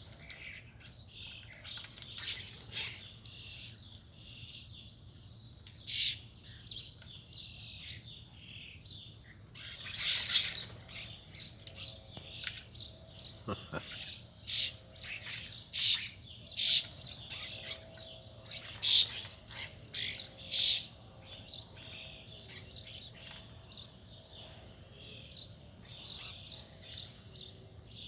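Songbirds chirping and calling: many short, sharp high calls in quick succession, busiest in the middle.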